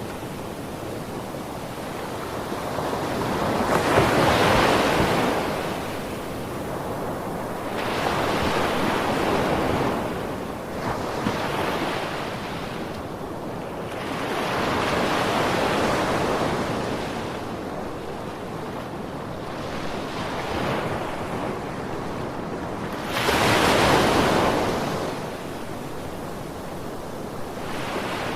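Sea waves breaking on a beach and washing back, a rush of surf that swells and fades every few seconds, one wave breaking more abruptly about two-thirds of the way through.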